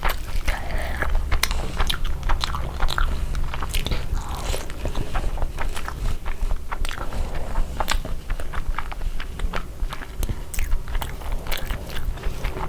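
Close-miked eating: chewing with many irregular sharp, crisp crunches.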